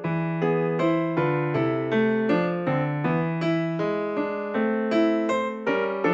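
Calm instrumental music: a piano playing a steady flow of broken chords over held bass notes.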